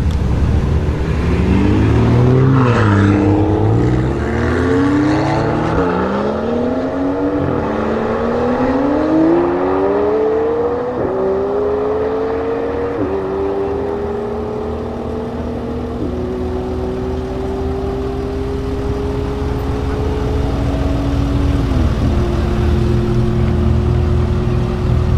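Twin-turbo V8 of a tuned McLaren 720S with a Capristo exhaust under full acceleration, its pitch climbing through each gear and dropping sharply at each upshift. The shifts come quickly at first and then further and further apart, the later gears held for several seconds as speed builds.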